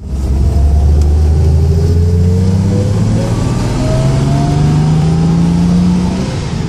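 Triumph GT6's two-litre straight-six engine pulling the car away and accelerating, its note climbing steadily, then falling near the end as the revs drop. Heard from inside the cabin, with the ignition timing freshly reset and the carburettors freshly balanced.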